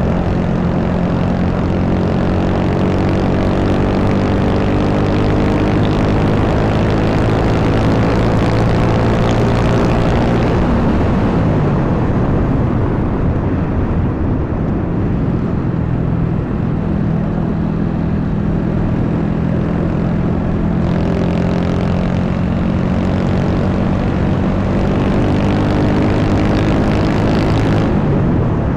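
Honda Wave 125 motorcycle's single-cylinder four-stroke engine running while riding, its pitch climbing slowly, dropping away about ten seconds in, then holding steady and dropping again near the end. Wind rushes over the microphone throughout.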